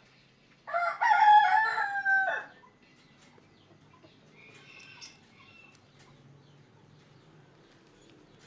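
A rooster crows once, a loud call lasting about two seconds that ends on a long held note.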